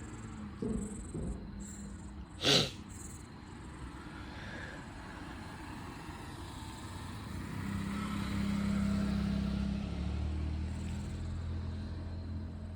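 A sharp, brief noise about two and a half seconds in, then a steady low engine hum that grows louder from about halfway through.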